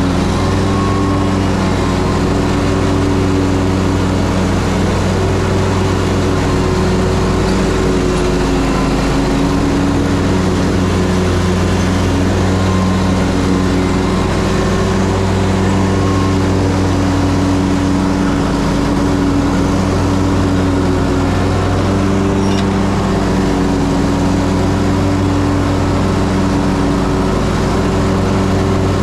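Ferris Z3X zero-turn mower's 37 hp engine running steadily under mowing load, its pitch shifting slightly now and then.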